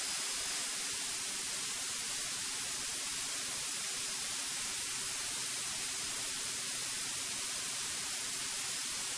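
Steady electronic hiss of a cockpit intercom audio feed with no one talking, with a faint low hum beneath it.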